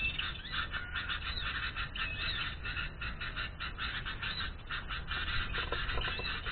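Small birds chirping and chattering rapidly and continuously, many short high notes packed closely together.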